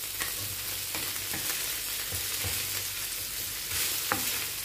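Chicken pieces sizzling in oil on a flat tawa griddle, with a few light knocks and scrapes of a wooden spatula on the pan as the pieces are stirred and lifted out.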